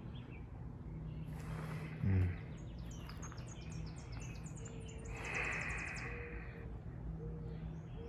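Wild birds chirping outdoors: a quick series of short high chirps, then a fast high trill a little past the middle, over a faint steady low hum. A short low thump about two seconds in is the loudest moment.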